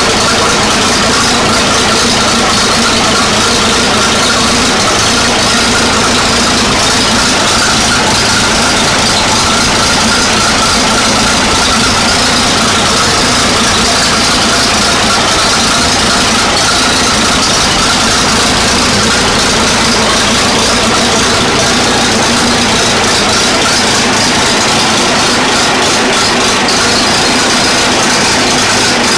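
1940 Fordson N tractor's four-cylinder side-valve engine running steadily at idle.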